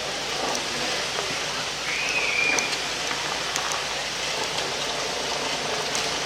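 Steady rushing of flowing water, with a few faint clicks and one short whistle-like call about two seconds in.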